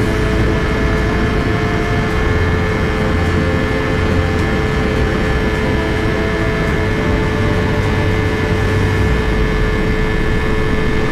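250cc sport motorcycle engine held at steady high revs, its note not changing.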